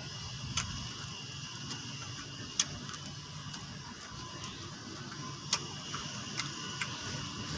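A person chewing raw kenikir leaves, with about half a dozen short sharp clicks and smacks over a faint steady hiss.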